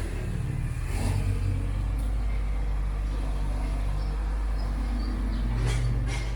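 Car driving: a steady low rumble of engine and road noise, with short knocks about a second in and again near the end.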